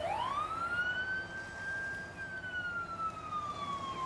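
Emergency vehicle siren on a wail: the pitch sweeps quickly up in the first second, holds near the top, then slowly falls.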